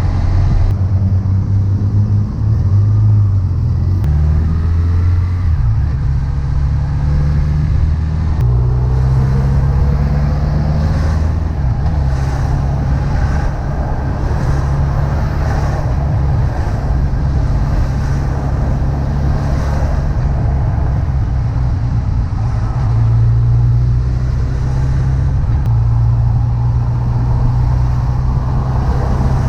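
Honda CB1100EX air-cooled inline-four engine running while the motorcycle is ridden. Its note shifts up and down in steps over the first eight seconds or so, then holds steady.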